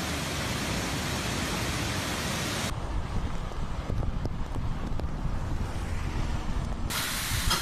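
Hurricane wind and rain rushing as a steady hiss. About three seconds in it cuts to a duller, lower rush with a few faint ticks, and near the end the full hiss returns.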